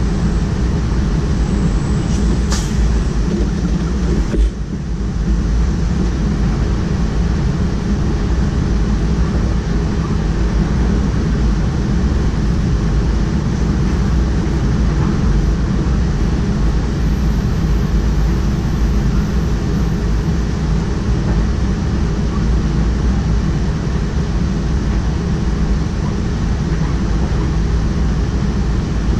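DDAR double-deck train running along the line, heard from the driver's cab as a steady, loud low rumble. There is a single sharp click about two and a half seconds in.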